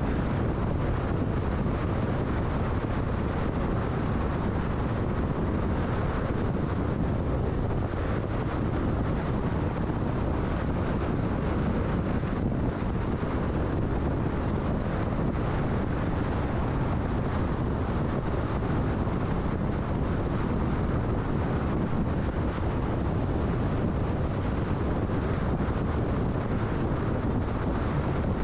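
Car driving at freeway speed: steady tyre and wind noise.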